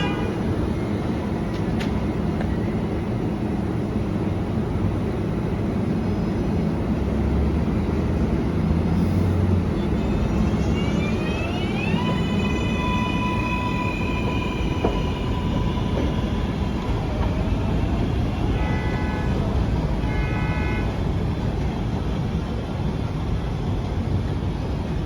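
R188 subway train running on the elevated track with a continuous low wheel rumble. About halfway through, its electric traction motors whine, rising in pitch and then holding steady for a few seconds. Two short stacked tones sound later.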